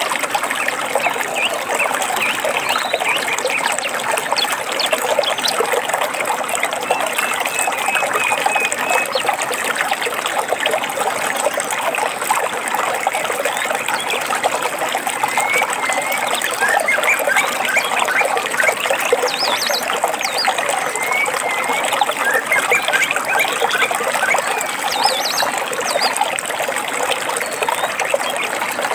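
Shallow stream water trickling and babbling steadily, with small birds chirping briefly now and then over it.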